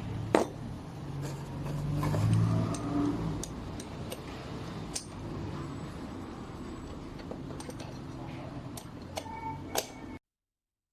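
Scattered light clicks and taps of a small hand coffee grinder's parts being handled, over a low rumble that swells about two seconds in. The sound cuts off abruptly near the end.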